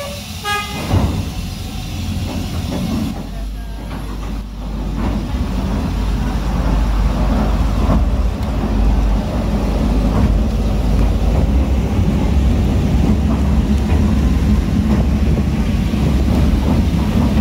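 Trolley sightseeing train pulling out of a station: a brief pitched signal right at the start, then a low rumble of engine and wheels that builds over the first several seconds as the train gets under way and runs on steadily, heard from inside an open-windowed car.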